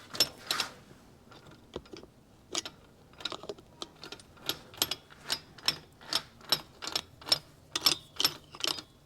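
Oil can being pumped to squirt oil into the engine internals: short sharp clicks, about two or three a second, with a short pause about a second in.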